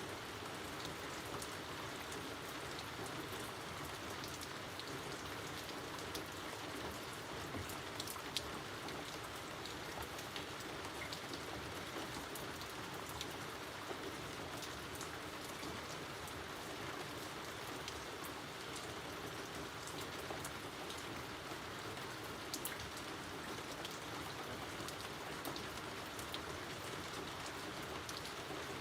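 Steady rain falling, with many separate drops pattering and ticking on nearby surfaces over an even hiss.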